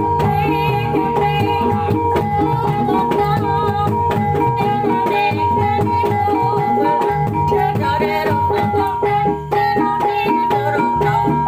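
Javanese kuda lumping music: quick hand-drum patterns over steady ringing held tones, with a wavering high melody on top.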